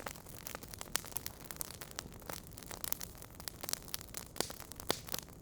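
Wood fire in a fireplace crackling: irregular sharp pops and snaps from burning logs over a steady low hiss.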